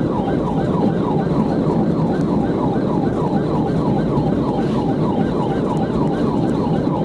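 Police car siren on a fast yelp, about three rising sweeps a second, over loud, steady road and engine noise from a vehicle in a high-speed pursuit.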